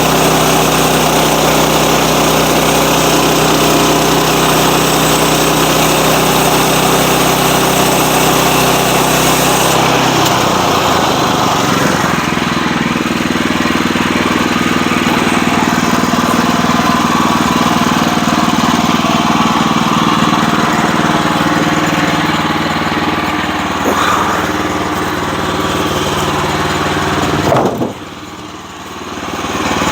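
Sawmill's engine running steadily under load. Its pitch and sound change about a third of the way in, and it briefly drops in level near the end.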